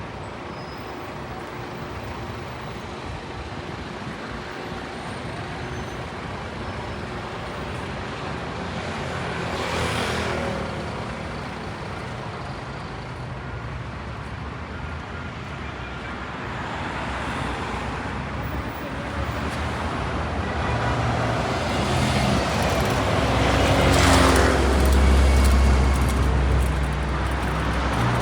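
City street traffic: steady road noise with cars passing. One vehicle goes by about ten seconds in, and a heavier vehicle with a deep rumble passes near the end, the loudest moment.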